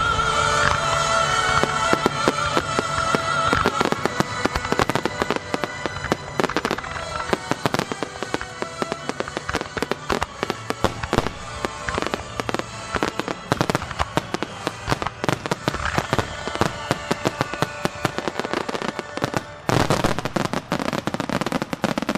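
Aerial fireworks shells bursting with many sharp bangs, over music played for the show. The music opens with a singer's long held note with vibrato, which fades over the first few seconds. Near the end the bangs come in a dense, rapid barrage.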